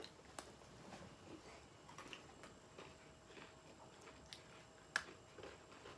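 Near silence with faint crunching of crackers being eaten: scattered soft clicks, one sharper one about five seconds in.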